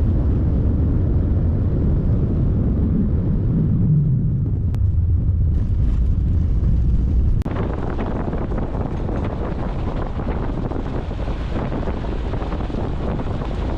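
A Subaru driving on a rough dirt road, heard from inside the cabin: a steady rumble of engine and tyres. About halfway through, it changes suddenly to a lighter, hissier road noise.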